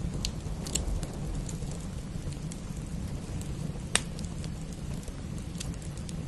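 Wood fire crackling over steady rain, with a low rumble underneath; scattered small pops and one sharp, loud crack about four seconds in.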